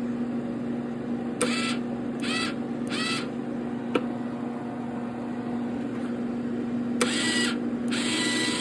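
MIG welder's wire feed motor running steadily with the gun trigger held, now working after a broken trigger-switch wire was soldered. Several short rushing bursts and a couple of sharp clicks sound over the steady hum.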